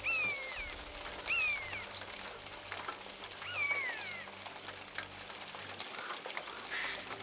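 A bird calling: three loud, falling cries, each followed by a short second note.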